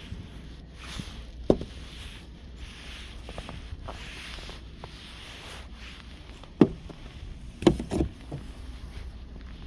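Snow being brushed and scraped off a car in repeated swishing strokes, with sharp knocks about a second and a half in, near the middle, and twice close together later on.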